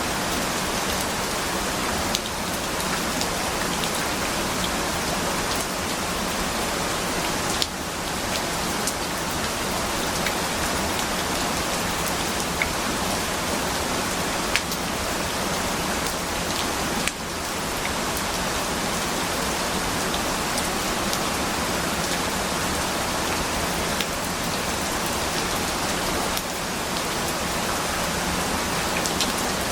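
Steady heavy rain falling, an even hiss with scattered sharp drop clicks here and there.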